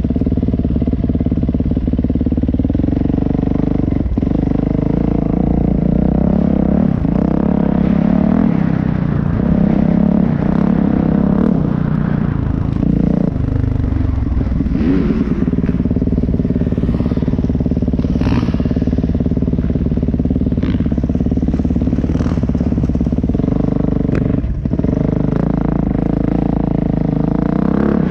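Dirt bike engine running loud and steady, its pitch shifting up and down several times as the throttle changes, with a few knocks and rattles over it.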